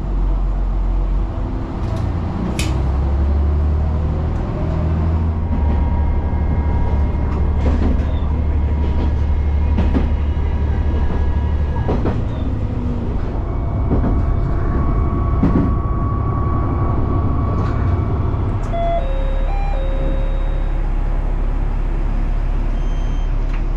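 Diesel railcar running along the line with a steady low engine and wheel rumble and scattered clicks and knocks from the track. A few short stepped tones sound about three quarters of the way through.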